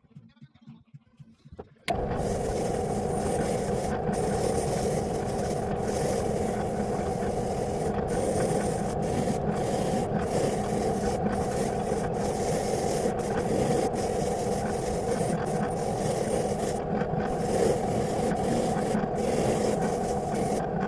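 Power tool scrubbing old paint off metal vice parts: a steady abrasive rasping that starts suddenly about two seconds in and cuts off sharply at the end.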